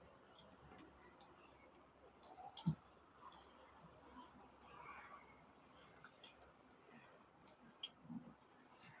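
Faint outdoor ambience of insects with scattered short high chirps and clicks, a sharp knock about two and a half seconds in and another near the end, and a brief high falling chirp near the middle.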